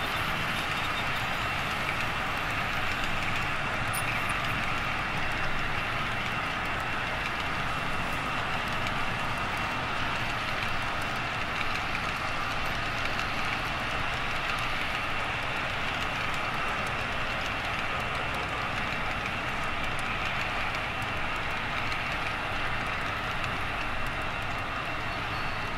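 HO scale model train running on the layout, a steady, unbroken running sound.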